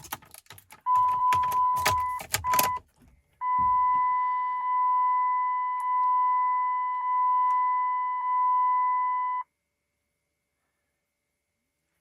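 Pickup truck's dashboard warning chime: a steady high beep pulsing about once a second, with keys jangling and a few knocks in the first few seconds. It cuts off suddenly a little past two-thirds of the way through.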